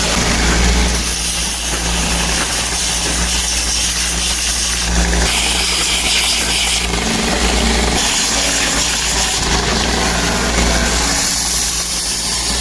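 Steady machine motor hum from workshop machinery running, shifting abruptly in character several times.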